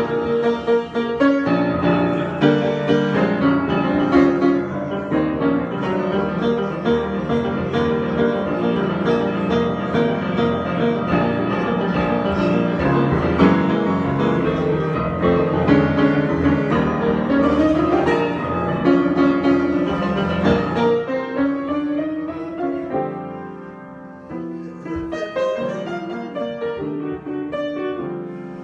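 Solo piano improvisation: full, dense chords and running notes, which thin out and grow quieter about 21 seconds in, with single notes and chords picked out from there on.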